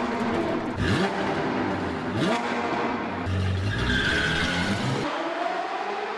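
Sports car engine sound effect revving hard in a series of rising sweeps, like quick upshifts, with a high tyre screech around the middle. About five seconds in the engine drops away and a thinner rising tone carries on.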